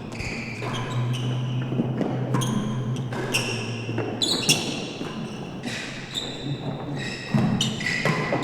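A real tennis rally in an indoor court: a string of sharp hits of racket on ball and ball against the walls and penthouse, each ringing briefly in the hall.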